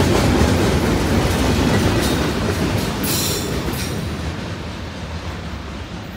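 BNSF manifest freight train's last cars rolling away on the rails, a heavy rumble and wheel noise that fades steadily as the train recedes. A brief high squeal comes in about three seconds in.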